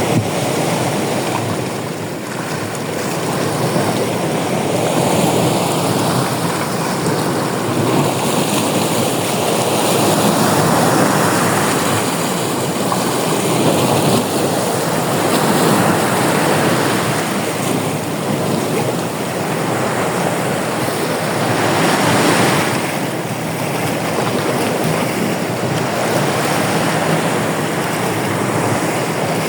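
Ocean surf: waves breaking and washing up, a continuous rushing that swells and eases every few seconds.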